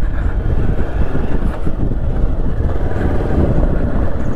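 Motorcycle being ridden along a road: a steady low rumble of engine and road noise.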